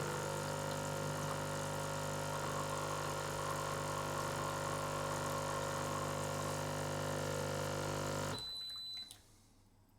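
Breville Barista espresso machine's vibration pump humming steadily as it pushes descaling water through the machine, with water running into the drip tray. It cuts off suddenly about eight seconds in.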